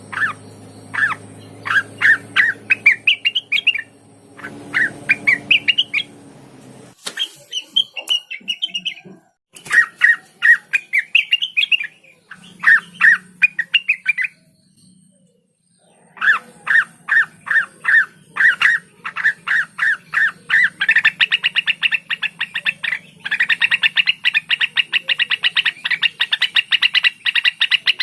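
A cucak wilis (a leafbird) singing: phrases of quick, sharp notes that climb in pitch, repeated in runs a few seconds long, then breaking into a long, very fast rapid-fire trill in the last seven seconds.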